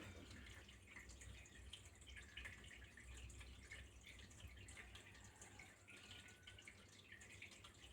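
Faint flowing water trickling and dripping, a steady patter of small drops and splashes.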